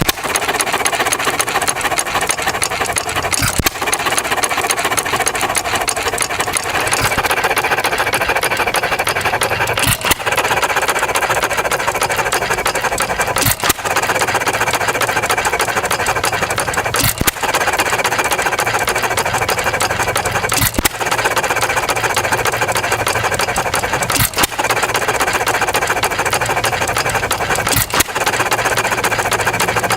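A 1½ hp Ideal hit-and-miss flywheel engine running on its own. It fires one sharp power stroke about every three and a half seconds, with steady mechanical clatter in between as it coasts on its flywheels.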